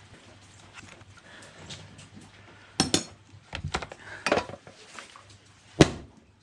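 A handful of sharp metallic clicks and clanks, the loudest near the end, from a Husqvarna 136 chainsaw being handled as its chain brake is snapped on and off by hand to test it.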